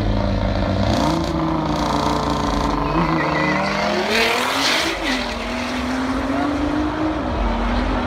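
Nissan GT-R's twin-turbo V6 revving at the start line, then launching with a burst of tyre noise about four seconds in and pulling away down the strip. Crowd chatter underneath.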